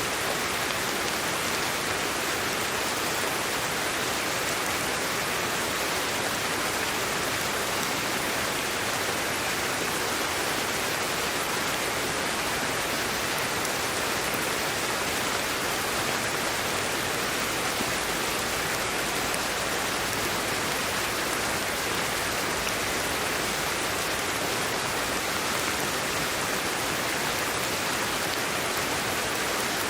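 Sleep-aid white noise: a steady, even hiss, more hiss than rumble, that never changes.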